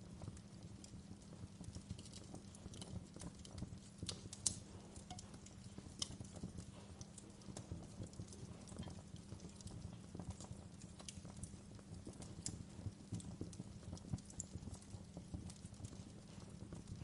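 Fire crackling: irregular sharp pops and snaps over a low steady rumble, with one louder pop about four and a half seconds in.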